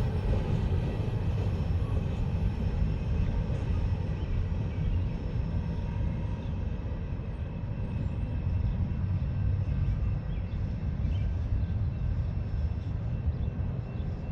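Freight train of empty mine cars rolling along the track with a steady low rumble, slowly fading as it moves away.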